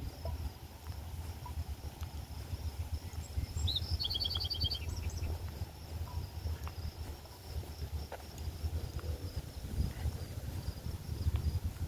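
Steady chorus of crickets trilling, with a bird giving one short, rapid trilled call about four seconds in. A low rumble runs underneath.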